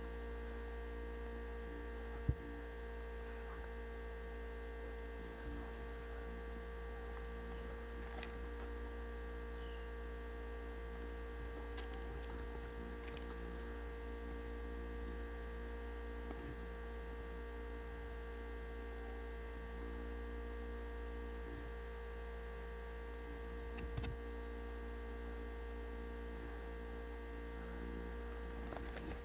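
Steady electrical hum with a low drone and several constant higher tones, unchanging throughout, and a single sharp click a little over two seconds in.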